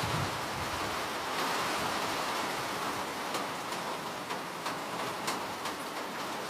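Steady rain falling, an even hiss with scattered sharper drop hits, several of them in the middle.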